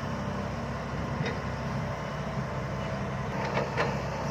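Six-wheel dump truck's diesel engine running steadily under load with a slight howl, and a few short knocks about three and a half seconds in.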